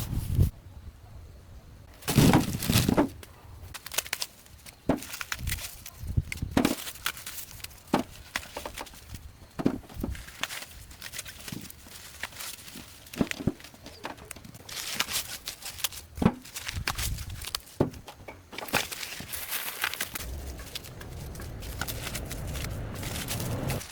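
Irregular knocks, clicks and snaps with bursts of rustling, the sounds of hands-on work such as handling plants or wood.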